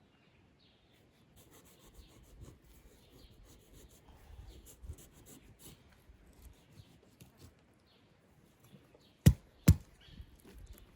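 Small scraping and tapping handling sounds, with two sharp knocks about half a second apart near the end. Faint bird chirps behind.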